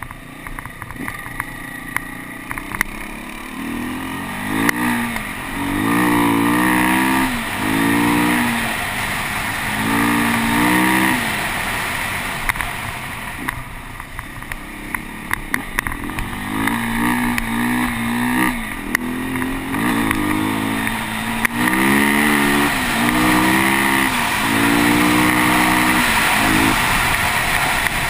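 Beta 250RR enduro motorcycle engine revving hard as the bike accelerates along a dirt track, its pitch rising again and again and dropping at each gear change, with a steadier lull about halfway through. A few sharp clicks sound near the start.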